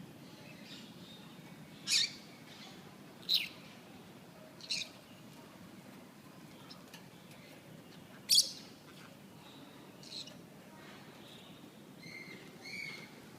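Small pet parrots (Quaker parrot, cockatiel, conure and lovebird) calling: five short, sharp, shrill calls spaced a second or more apart, then softer chirps near the end.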